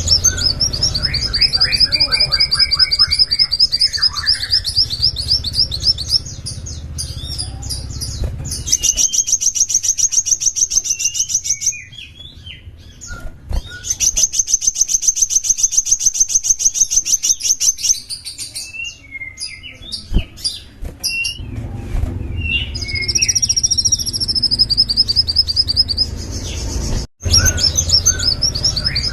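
Sunbird singing: long, fast trills of evenly repeated high notes, broken by short chirps and brief pauses. A low rumble sits underneath in the first third and again near the end.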